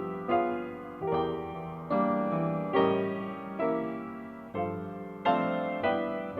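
Solo piano playing a slow song, chords struck a little more than once a second, each ringing and fading before the next.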